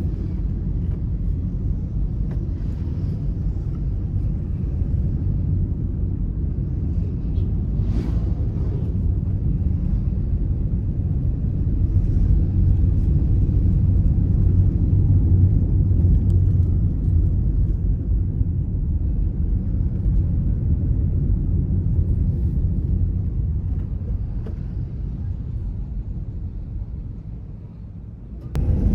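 Car driving along: a steady low rumble of engine and tyre road noise, a little louder in the middle and easing off near the end before coming back abruptly. A faint click about eight seconds in.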